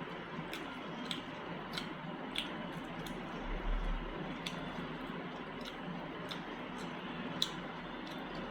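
Wet, squishy chewing of a gravy-laden meal eaten by hand, with sharp mouth clicks about every half second, a soft low thump about three and a half seconds in and a louder click near the end.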